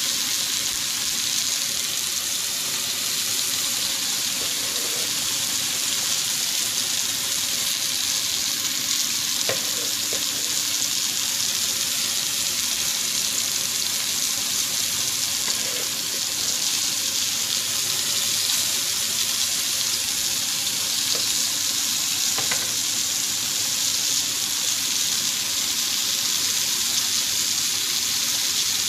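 Chicken pieces frying on a tawa griddle, a steady sizzle with a few faint clicks.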